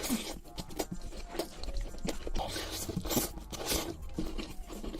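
Close-miked eating: crunchy food bitten and chewed, a dense run of irregular crunches and crackles.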